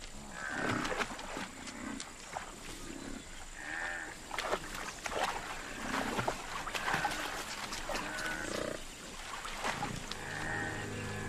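Wild water buffalo grazing in wet, leafy water plants: many crisp tearing and chewing clicks, with a short animal call every couple of seconds.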